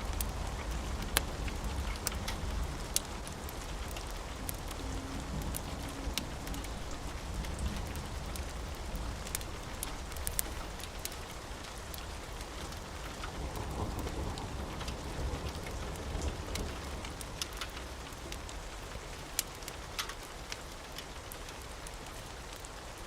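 Steady rain with a low rumble of thunder that is strongest at the start and eases off, and scattered sharp ticks through it.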